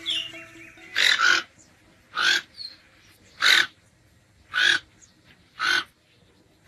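A bird giving loud, hoarse calls, one about every second: a double call about a second in, then four single calls.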